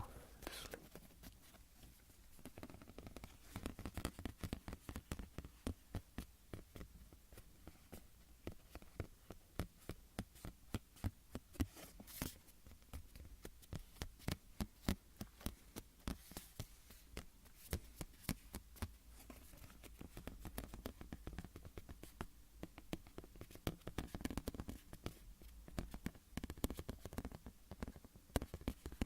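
Close-miked tapping and scratching on a small hard object: quick, irregular clicks, several a second, with no pause.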